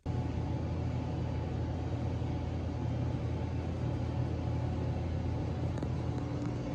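Vehicle engine running at a steady idle, a low even rumble making a ruckus.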